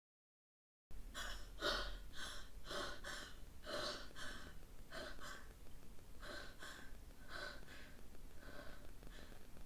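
A person's quick, heavy breathing with gasps, starting about a second in after dead silence. The breaths come about two a second and space out a little toward the end.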